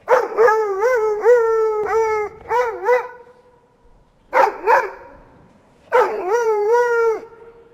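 Dog howling and yelping in a series of pitched calls: a run of quick rising-and-falling calls, a pause, two short yelps, then one longer howl near the end.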